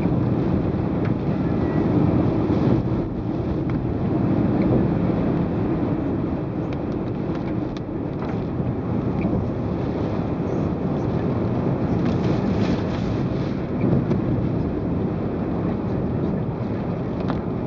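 Typhoon wind and heavy rain: a loud, steady rushing noise with scattered sharp ticks of raindrops striking.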